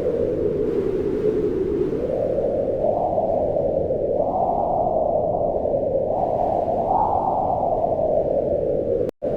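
Howling wind: a steady rushing noise with a hollow tone whose pitch rises and falls in slow gusts, highest around the middle. It cuts out completely for an instant near the end.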